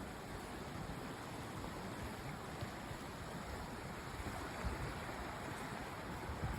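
Steady rushing of a mountain creek flowing over rocks, with a few soft low bumps in the second half.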